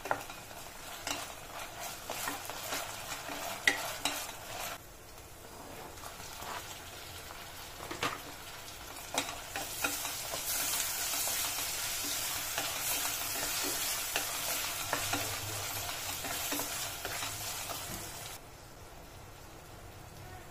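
Chopped onions frying in oil in a pressure cooker, stirred with a wooden spatula that scrapes and taps against the pot. From about ten seconds in, with tomatoes added, the sizzle is louder for several seconds before it settles down near the end.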